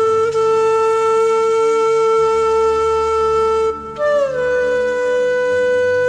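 Background music: a flute-like wind instrument holds one long note, breaks off briefly near the end, then comes in on a higher note that slides down, over a soft low drone.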